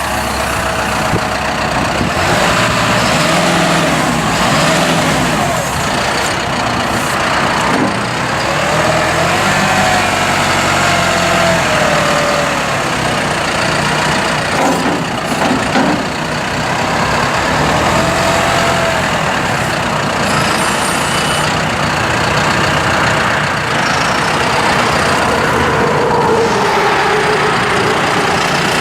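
John Deere 5100E tractor's turbocharged four-cylinder diesel engine running steadily, with a whine that rises and falls several times.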